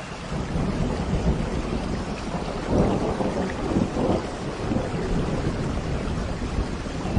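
Steady rain falling with low rumbles of thunder, heaviest about three and four seconds in.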